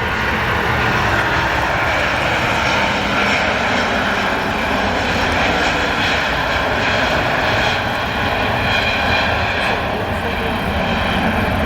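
Airbus A350's Rolls-Royce Trent XWB turbofan engines, a loud steady jet noise with a high fan whine over the rumble.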